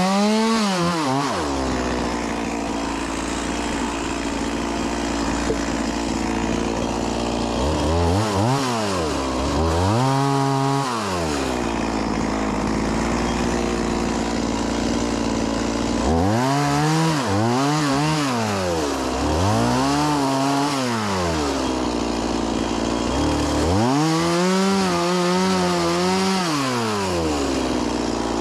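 STIHL MS 180 C-BE two-stroke chainsaw idling, revved up to full throttle in about six short bursts as it cuts firewood, each time falling back to a steady idle.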